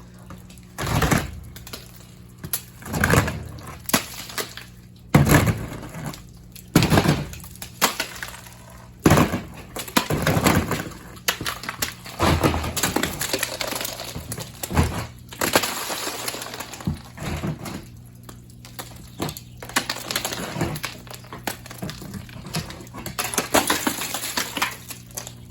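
Ice breaking and shattering in a series of sharp crashes, about one every two seconds at first, then a longer run of clattering fragments.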